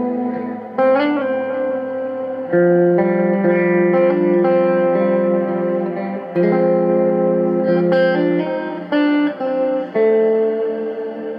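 Electric guitar played through a Zoom G3Xn multi-effects pedal's Space Verb preset and an amplifier, heard through the room. Chords and notes are struck about six times and each rings on with long reverb into the next, with a wavering bent note about a second in.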